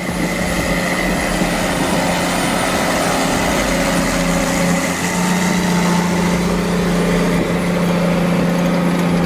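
Tractor engine running at a steady pitch with an even, unbroken hum.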